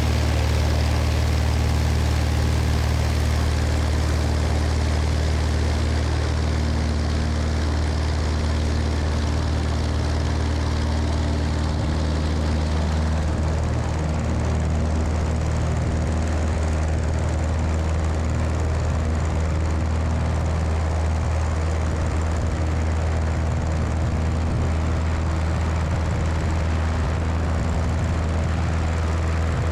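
Cessna 172's piston engine and propeller droning steadily in flight, with wind rushing over a wing-mounted microphone. The wind hiss shifts in tone about halfway through.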